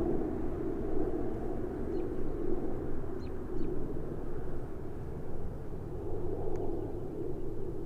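Steady, distant rumble of a Boeing 747-400 freighter's jet engines on approach, heard from the ground, with a few faint short high chirps over it.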